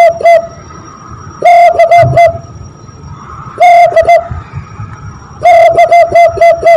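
Zebra dove cooing imitated by blowing into cupped hands: groups of quick repeated coos, each note dipping in pitch. A phrase trails off at the start, then come a short run of about four notes, a pair of notes, and a longer run of about seven near the end.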